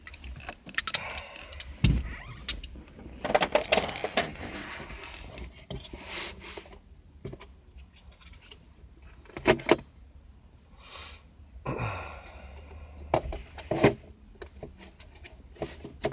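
Metal tools and loose bolts clinking and rattling as they are handled and sorted, in irregular clusters of clicks and clatter.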